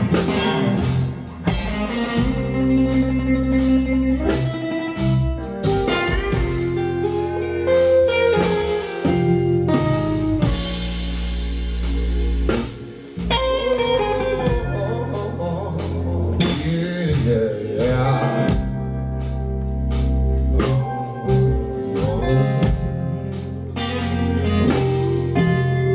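Live band playing a bluesy instrumental passage, with guitar lines bending in pitch over a drum kit.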